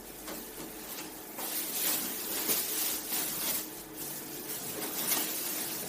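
Plastic wrapping around a microwave oven crinkling and rustling as it is handled, busiest in the middle.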